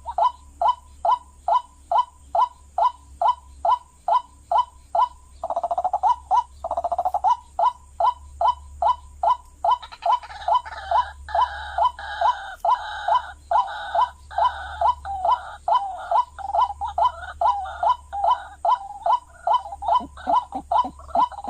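White-breasted waterhen calls repeated without a break, about two and a half short, down-curving notes a second, played as a lure to draw waterhens in. About five and a half seconds in the calling runs together into a quick rattle, and from about ten seconds in a second, higher-pitched voice joins in over the steady beat.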